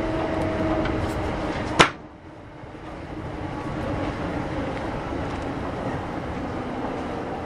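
Interior sound of a Kintetsu 8600-series electric train: steady rumble with a faint hum. About two seconds in there is one sharp clack, then the noise drops suddenly and slowly builds back up.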